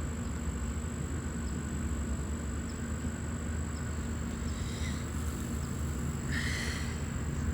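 Steady low outdoor background rumble with a thin high whine over it, and a short hiss about six and a half seconds in.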